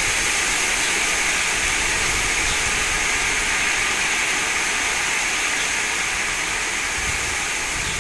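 Wind rushing steadily through garden trees and shrubs, with gusts buffeting the microphone.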